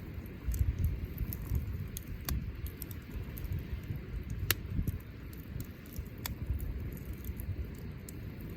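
Wood fire crackling: scattered sharp pops and snaps over a low rumble, with one louder snap about four and a half seconds in.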